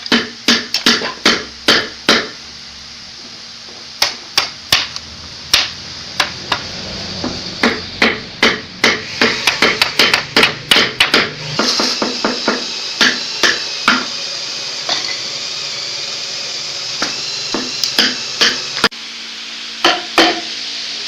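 Hammer blows in runs of quick strikes, about two to three a second, with short pauses between the runs, over a steady hiss.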